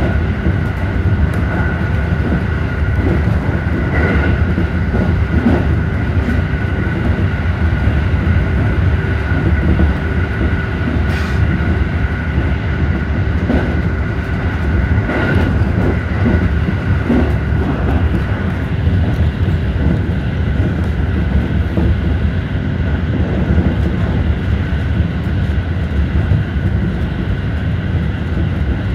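JR Central 313-series electric train running at speed, heard from inside its leading car: a steady rumble of wheels on rail with a steady high whine and a few clicks.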